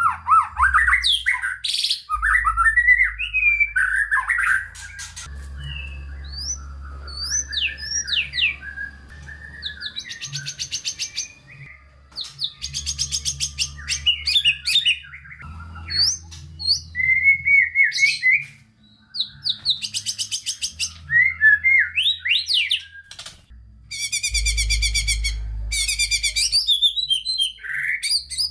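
White-rumped shama (murai batu) singing an unbroken, varied song. Gliding whistles and chattering phrases alternate with fast rattling trills, in quick succession. This is the 'gacor full isian' singing: continuous song packed with varied fill-in phrases.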